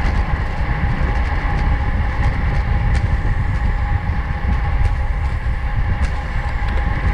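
Wind and road noise on a camera riding on a racing bicycle at speed: a heavy, steady low rumble with a thin steady whine above it and a few faint clicks.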